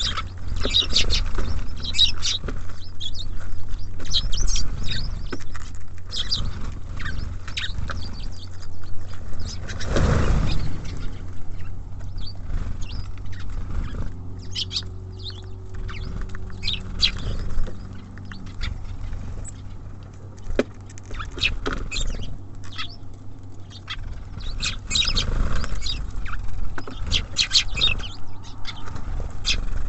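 Small songbirds at a feeder giving short, high chirps and calls again and again, over a steady low rumble, with a louder rushing noise about ten seconds in.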